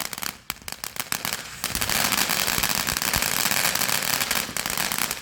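Consumer firework crackling: a rapid, dense run of sharp crackles, thinner at first and then thickening into a steady crackle about a second and a half in.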